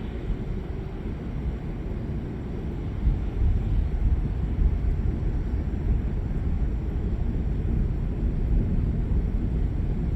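Thunder rolling in a low, continuous rumble that swells about three seconds in and keeps rumbling.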